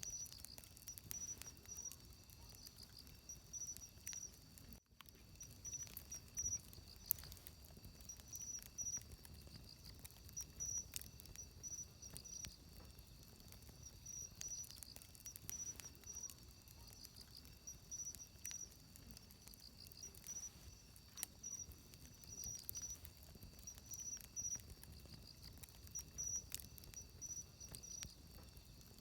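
Wood campfire crackling faintly with scattered sharp pops, one louder about seven seconds in, while insects chirp in short high trills that repeat every second or two.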